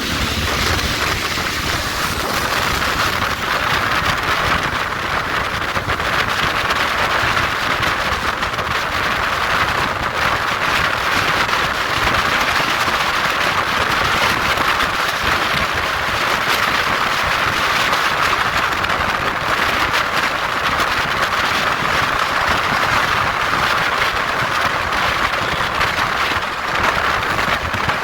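Steady wind rush over the microphone of a motorcycle being ridden at speed, with the vehicle's running noise underneath.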